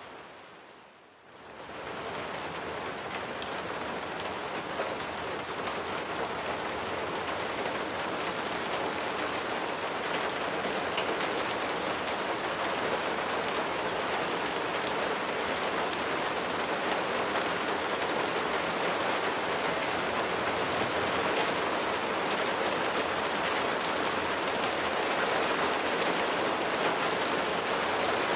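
Steady rain falling, a dense even hiss of raindrops. About a second in it briefly fades almost out and swells back.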